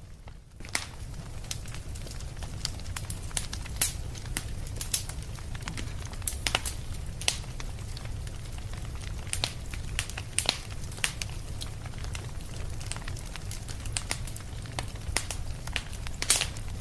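Fireplace fire crackling: irregular sharp pops and snaps, a few at a time, over a steady low rumble.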